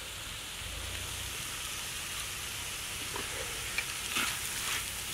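Ivy gourd stir-fry sizzling steadily in a large wok, with a few faint scrapes of a ladle stirring it in the second half.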